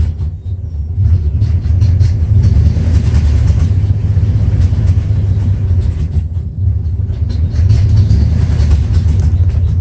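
1994 Dodge Ram's 5.9L engine running with a low, uneven rumble, dipping briefly a couple of times: a rough idle that the owner traced to a failing crankshaft position sensor.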